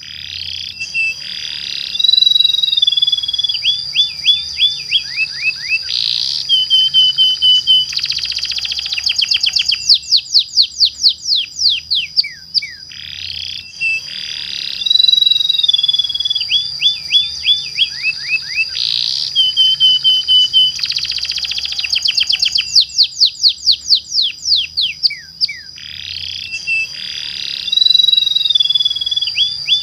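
Domestic canary singing a long rolling song of fast trills and rapid downward-sweeping notes over a steady high tone, used as a lure song to set other canaries singing. The same song phrase repeats about every 12 seconds, as a looped recording.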